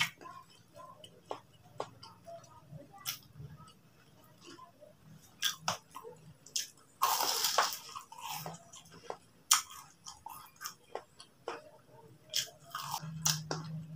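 Close-up chewing and biting of crispy battered fried tofu (tahu crispy): scattered crackling crunches, louder for about a second around seven seconds in.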